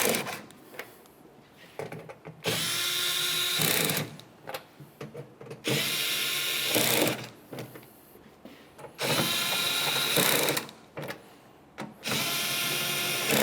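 Electric power tool driving the trim panel's mounting bolts in: four separate runs of about a second and a half each, a steady motor whine, one bolt after another being snugged tight.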